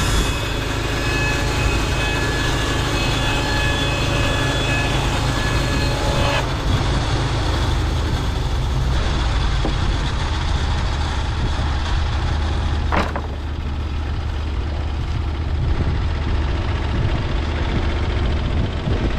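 Norwood LumberPro HD36V2 portable bandsaw mill running: a steady engine drone with a higher whine on top that drops away about six seconds in, after which the engine runs on. A brief sharp sound comes about thirteen seconds in.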